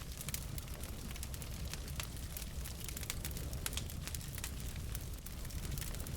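Logs burning in a fireplace, crackling and popping with many sharp, irregular snaps over a low, steady rumble of flame.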